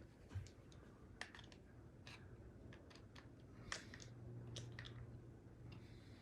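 Faint scattered clicks and small taps of a weapon light being handled and fitted onto a pistol's accessory rail, with a faint low hum in the second half.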